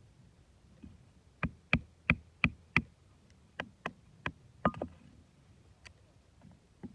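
A series of sharp knocks: five quick strikes about three a second, then four more, more spaced out, a moment later.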